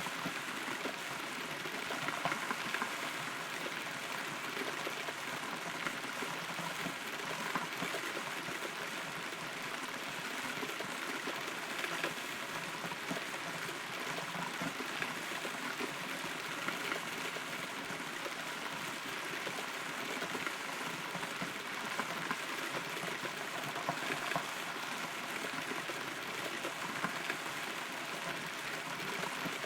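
Steady rain heard from inside a hollow, rotten tree trunk, with many small, irregular drop hits on the wood.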